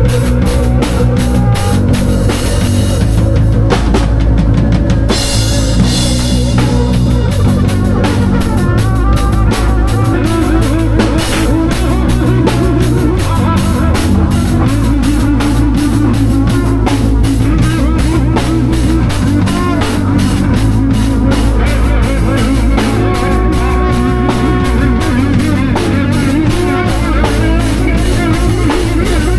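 Live band improvising rock-style music: a drum kit playing a steady beat with bass and guitar over it.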